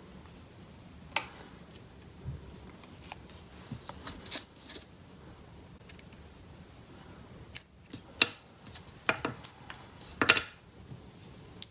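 Paper and scissors being handled at a craft table: scattered short clicks, snips and brief rustles. The loudest comes about ten seconds in.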